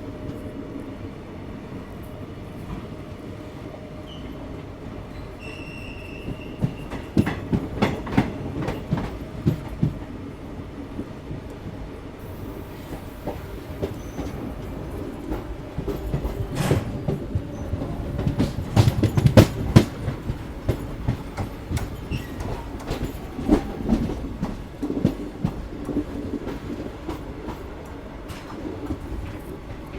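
Koyna Express passenger train running, its wheels clattering rhythmically over rail joints under a steady rumble. Two spells of louder, quicker clatter, about a quarter of the way in and again just past the middle, as the wheels cross points or rougher track.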